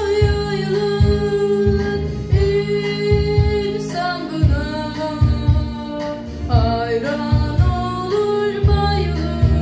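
A female voice student singing in a deep voice, holding long notes that step between pitches, over an instrumental accompaniment with a steady low pulse.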